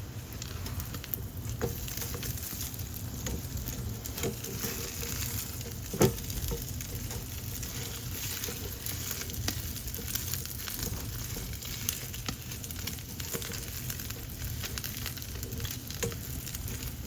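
Chicken patties frying in a pan, a steady sizzle with many small crackles and pops as they crisp. One sharp knock about six seconds in.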